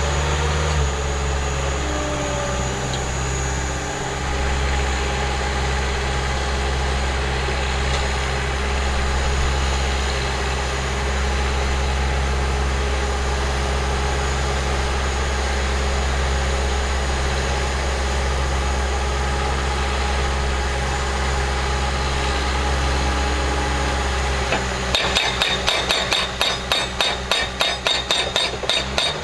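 Skid steer engine running steadily. Near the end, the Eterra PDX-1000 breaker-style post driver starts hammering in fast, even blows, several a second, as it drives a fence post.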